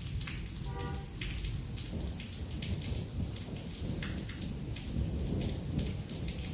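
Heavy thunderstorm rain pouring and dripping, with many sharp drop impacts, over a low rumble of thunder. A brief pitched tone sounds about a second in.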